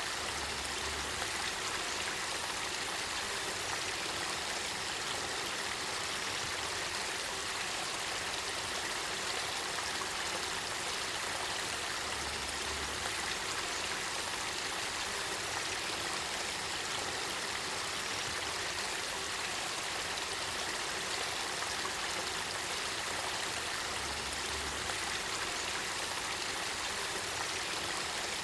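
Spring-fed river water flowing: a steady, even rush of running water.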